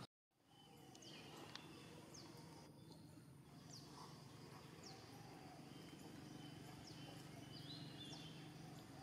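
Faint outdoor ambience with a steady low hum. Short, high, downward-falling bird chirps come through it about once a second, after a brief silent gap at the start.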